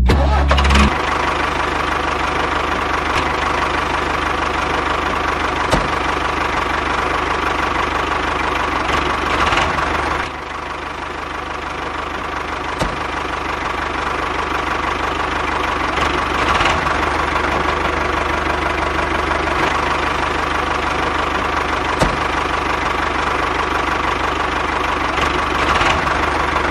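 A small motor running steadily with a whine and a dense mechanical clatter, a sharp click now and then, dipping a little in level about ten seconds in.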